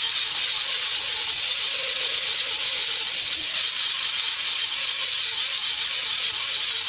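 A grinder running steadily against tyre rubber, a loud, even, high hiss as the inside of a loader tyre is ground out around a puncture hole to prepare it for a patch; it stops abruptly right at the end.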